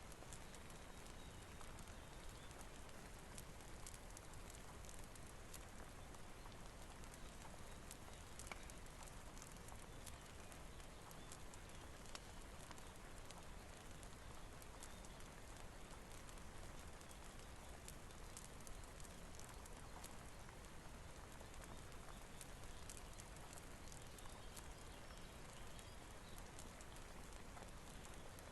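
Faint, steady rain hiss mixed with scattered sharp crackles and pops of a wood fire.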